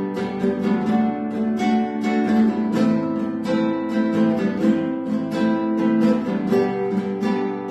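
Acoustic guitar strummed in a steady campfire strumming rhythm, several strokes a second, moving through the chords G, Em, C and D.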